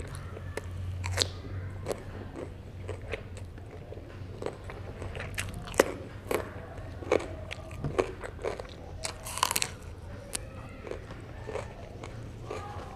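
Close-miked eating of herring: wet chewing and biting with many short sharp clicks and mouth smacks, and a denser crunchy patch about nine seconds in.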